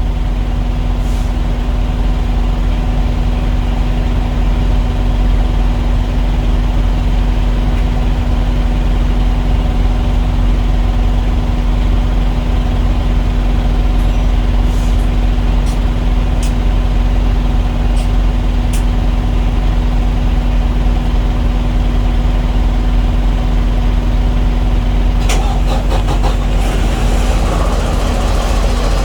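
Diesel engine idling steadily with a constant hum and low rumble.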